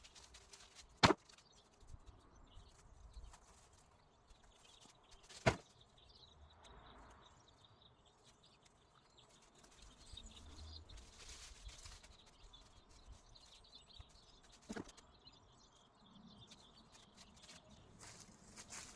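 Hand pruning shears snipping three times: short, sharp clicks, the first two loud and the third softer, over a faint outdoor background.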